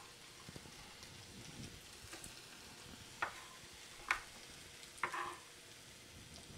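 Chicken frying in a wok, a low steady sizzle. Over it come three sharp scrapes about a second apart in the second half, as a knife blade scoops diced onion off a bamboo cutting board.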